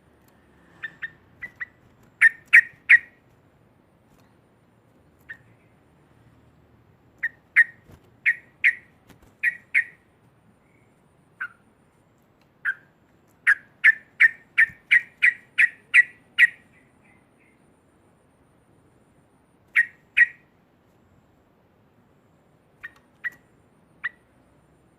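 Yellow-vented bulbul (trucuk) giving loud chattering 'ngekek' calls: short, sharp repeated notes in irregular bursts, the longest a quick run of about eight notes midway, with a few fainter notes near the end.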